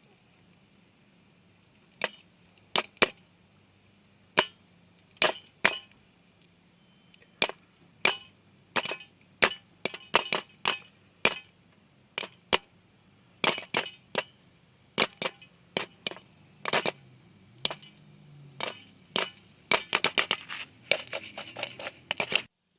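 Popcorn kernels popping in olive oil under an aluminum-foil cover over a campfire. Sharp single pops begin about two seconds in and come faster and closer together toward the end, as the batch reaches full popping.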